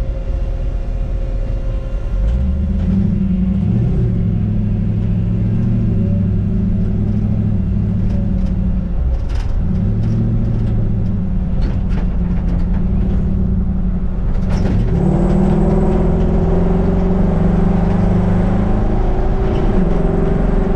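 Mustang 5.0 L V8 in a 1960 Ford F100 running under load on the road, its note climbing and then dropping back several times, with road rumble underneath.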